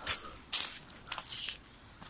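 Footsteps crunching on the forest floor: a few short crunches of dry leaves and twigs underfoot, one right at the start, one about half a second in and a softer one around a second in.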